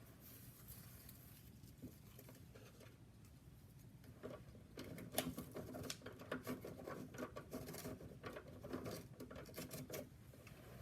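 Small plastic clicks and rattles from a miniature rear-loader toy garbage truck being handled. They become a busy run about four seconds in and stop shortly before the end.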